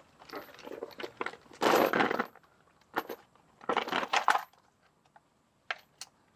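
Metal clinking and clattering of a socket and ratchet on the oil pan drain plug, in two short bursts about two seconds apart, with a few single clicks near the end.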